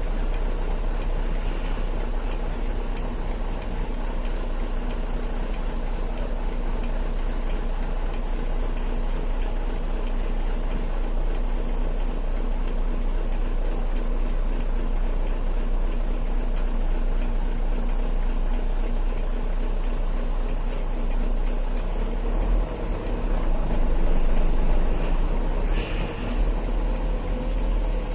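Engine of a truck loaded with a piling machine, running steadily with a low hum and a faint, regular ticking. It grows louder for a couple of seconds near the end.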